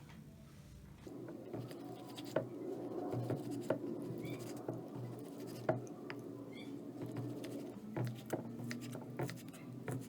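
Scattered light clicks and scratching from hands working with objects, over a steady low hum.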